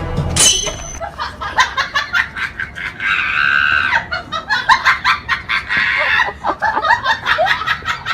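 A person laughing hard in quick bursts, with a high, drawn-out cry about three seconds in.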